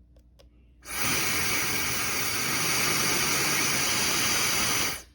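Fentgo high-speed brushless hair dryer (110,000 RPM motor) switched on about a second in, blowing with a steady, loud rush of air, then switched off shortly before the end.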